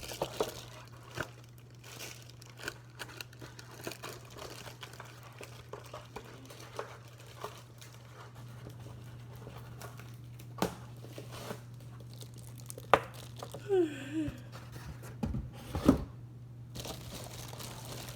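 Plastic and paper packaging crinkling and rustling, with scattered clicks and a few sharper knocks in the last several seconds, as the parts of a new espresso machine are unpacked.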